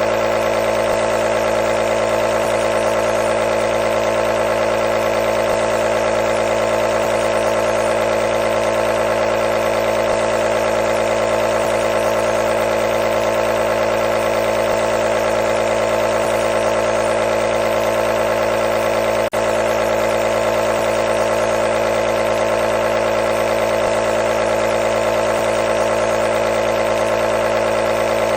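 Compressor nebulizer running steadily with a continuous hum, its loudest tone in the middle range, with a momentary dip about two-thirds of the way through.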